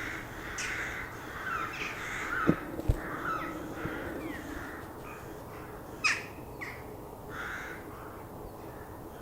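Birds calling, a run of short calls one after another, likely crows. Two or three sharp knocks close by stand out as the loudest sounds, about two and a half and six seconds in.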